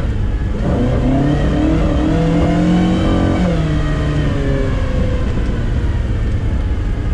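Car engine accelerating, its pitch climbing for about three seconds, then dropping and falling away as the throttle eases off.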